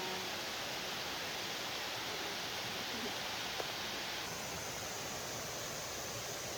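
Steady rushing of a waterfall and stream, an even roar of falling water, with a small tap about halfway through.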